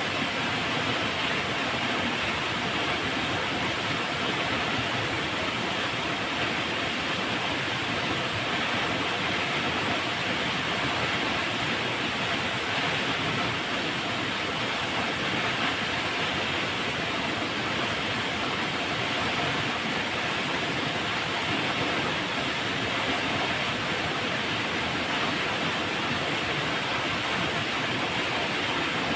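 Flowing river water: a steady rushing noise without breaks or changes.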